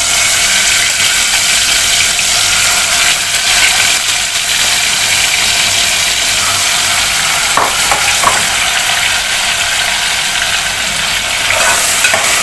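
Marinated chicken and its yogurt-tomato masala sizzling in hot oil in an aluminium pot as it is spooned in and stirred. A metal spoon clinks against the pot a few times, about two-thirds of the way in and again near the end.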